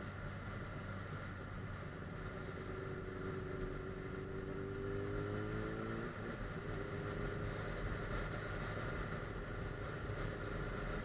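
Suzuki GSF 600 Bandit S motorcycle's inline-four engine running under way, over steady wind and road noise. The engine note rises slightly over a few seconds, breaks off about six seconds in, then carries on steady.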